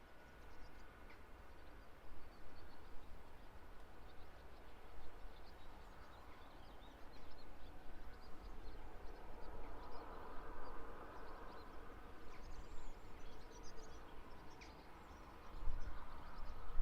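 Faint outdoor background of low rumble with scattered faint bird chirps. Near the end, a louder low rumble builds up.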